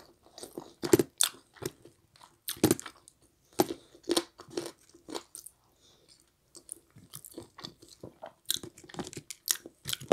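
Close-miked chewing and wet lip smacks from eating a chicken wing off the bone, with finger licking. Irregular, a smack or crunch every half second or so, with a brief pause about six seconds in.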